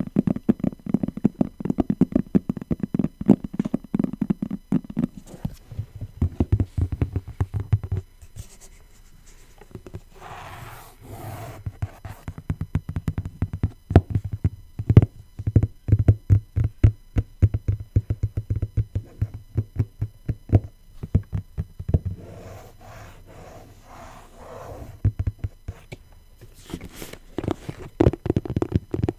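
Fingers tapping rapidly and unevenly on faux leather, dull low taps in quick runs. Twice it pauses for a few seconds of softer scratching or rubbing.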